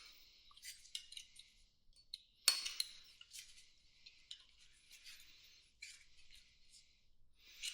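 Small metal parts and hand tools clinking and rattling while motorcycle carburetors are being taken apart, with one sharp metallic knock about two and a half seconds in.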